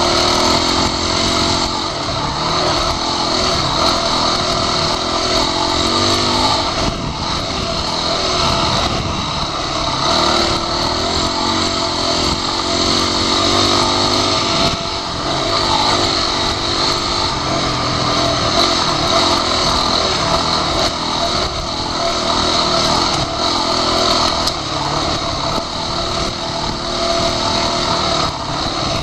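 Off-road motorcycle engine running on a dirt trail, its pitch rising and falling with the throttle, mixed with heavy wind rush on the rider-worn goggle camera's microphone.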